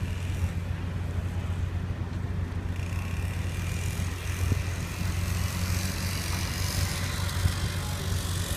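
Ship's engine running with a steady low drone and a broad rushing noise over it.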